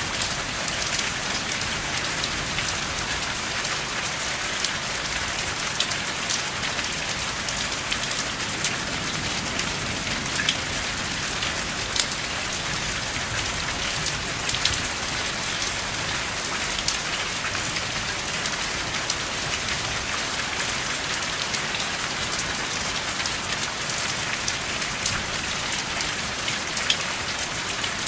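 Steady rain falling without thunder: an even hiss with many individual drops ticking sharply on top.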